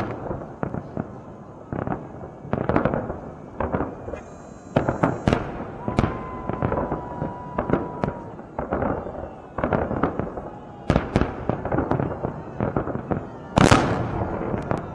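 Fireworks display, aerial shells bursting in a rapid irregular series of bangs, each with a rolling echo, the loudest burst near the end.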